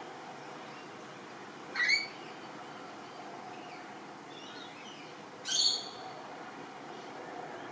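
Australian magpie giving two short calls, about two and five and a half seconds in, with fainter bird chirps between them.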